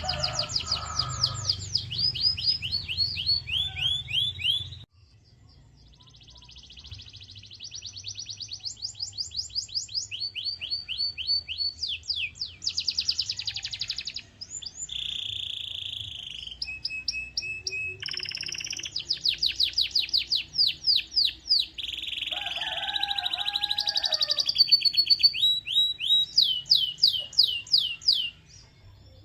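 Domestic canary singing: fast trills of repeated high notes, each sweeping downward, in runs that change speed and pitch, mixed with short steady whistled notes. The song breaks off briefly about five seconds in.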